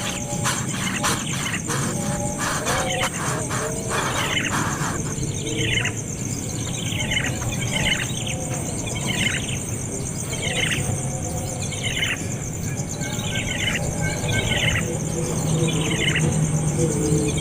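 A baby bird calling again and again, one call about every second, each call sliding down in pitch. The calls start about four seconds in, after a run of quick clicks.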